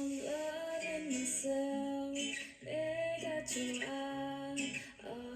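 Women singing a pop song live with acoustic guitar accompaniment, in short sung phrases.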